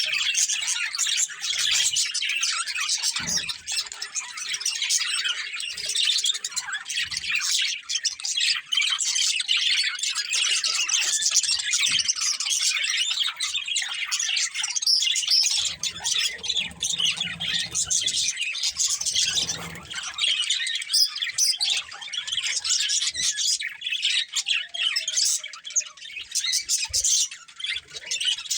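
Budgerigars chattering and chirping without a break, a dense stream of short warbles and squawks, with a few soft low knocks.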